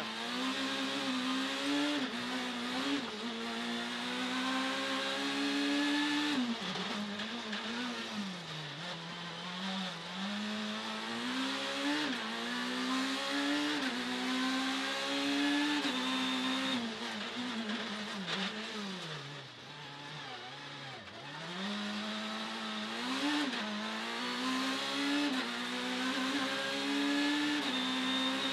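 Citroën C2 Super 1600 rally car's engine heard from inside the cabin while driving hard. The revs repeatedly climb and drop back through gear changes, and they sag for a couple of seconds about twenty seconds in before building again.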